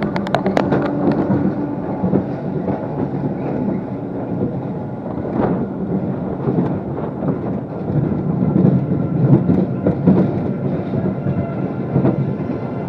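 A ride vehicle rumbling and rattling along a track, steady throughout and a little louder about two-thirds of the way in.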